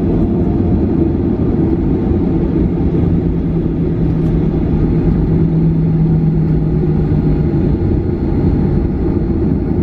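Steady low rumble of an airliner cabin on the ground after landing: engine and airframe noise, with a low hum coming in for a few seconds in the middle.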